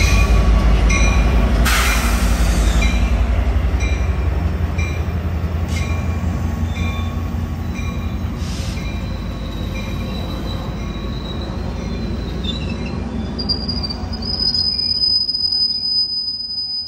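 Sounder commuter train led by an EMD F59PHI diesel locomotive passing. The locomotive's two-stroke diesel engine rumbles heavily at first, then the bilevel coaches roll by with a run of regular wheel clicks. A high, steady wheel squeal starts near the end.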